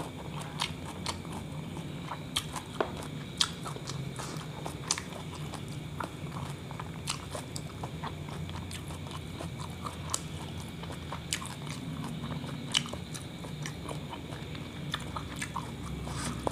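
Close-miked chewing of a mouthful of kebab wrap filled with meat, egg and vegetables in sauce: irregular sharp mouth clicks and smacks several times a second. A steady low hum runs underneath.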